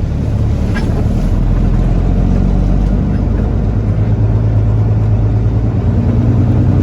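Semi truck's diesel engine running steadily under load, heard from inside the cab, its pitch edging up near the end. A brief click about a second in.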